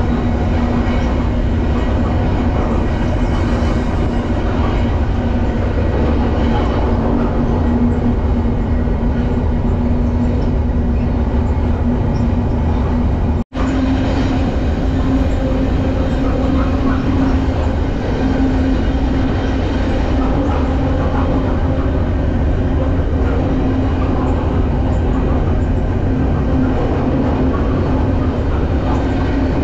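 BNSF freight train running, heard from aboard a car: a loud, steady rumble and rattle of wheels and car, with a steady drone through it. The sound drops out for an instant about halfway through.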